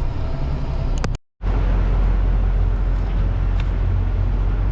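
Semi-truck running: a steady low rumble of engine and road noise, broken by a moment of silence about a second in.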